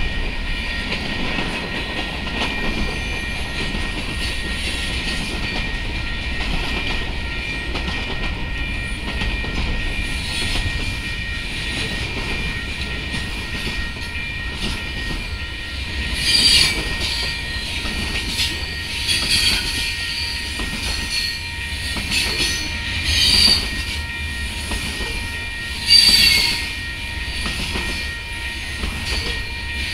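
Freight cars rolling past at close range: a steady rumble and rattle of wheels on rail, with short, high-pitched wheel squeals several times in the second half.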